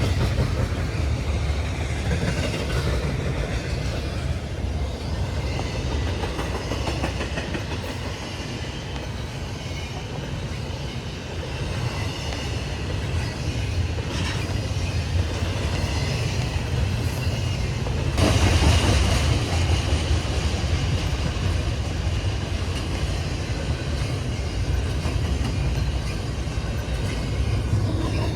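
Freight train passing at trackside: a steady low rumble with wheel noise on the rails, growing louder for a couple of seconds about two-thirds of the way through.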